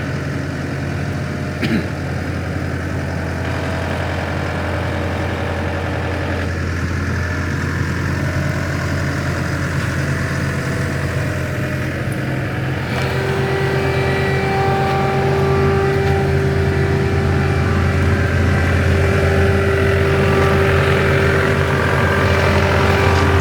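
Gehl RT210 skid steer's diesel engine running steadily. About halfway through, a steady higher whine joins and the machine gets a little louder.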